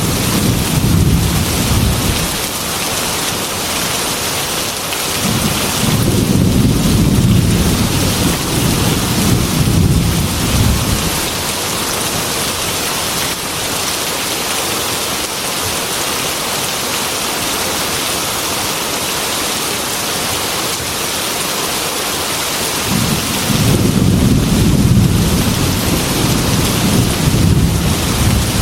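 Heavy rain drumming steadily on a metal roof, with rolling thunder rumbling underneath three times: at the start, from about six to eleven seconds in, and again near the end.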